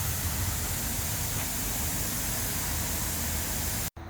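Steady hiss of water spraying from a running irrigation zone's sprinkler heads. It cuts off abruptly near the end.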